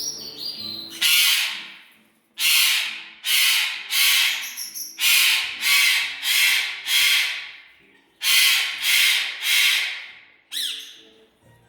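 Pet bird screeching over and over with harsh, loud squawks: one call, then a run of three, a run of four and another run of three, then a short falling chirp near the end.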